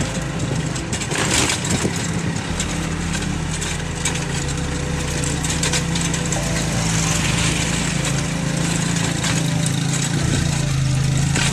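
Small motorcycle engine running steadily while riding along a paved road, with road and wind noise and a brief burst of noise about a second in; the engine note grows a little louder in the second half.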